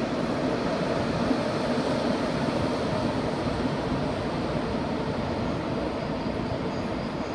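ICE high-speed train pulling slowly into the station, a steady rolling noise.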